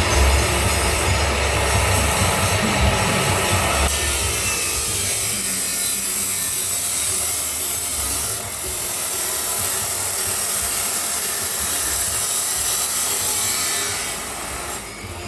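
Grinder cutting through stainless steel pipe: a loud, steady, hissing cut. A low rumble underneath drops away about four seconds in, the cut dips briefly about eight seconds in, and it tails off near the end.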